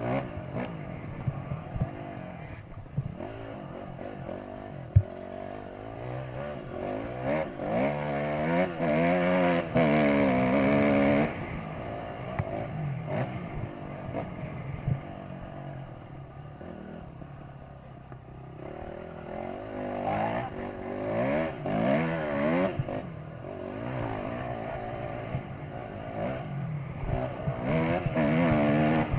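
Motocross dirt bike engines revving up and down, the pitch rising and falling in repeated surges, loudest about eight to eleven seconds in and again near the end. Scattered knocks and clatter, one sharp knock about five seconds in.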